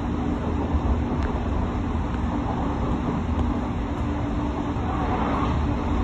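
Odakyu 3000-series electric commuter train running at steady speed: continuous rumble of wheels on rail with a steady low hum and a few faint clicks.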